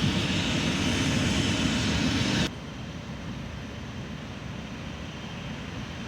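Aircraft engine roar, loud at first and then dropping abruptly to a quieter steady roar about two and a half seconds in.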